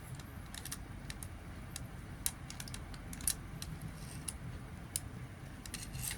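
Light, irregular plastic clicks and taps from a Micro Machines car wash playset as its knob is twisted and a small toy car is pushed through the wash. The two most distinct clicks come about two and three seconds in.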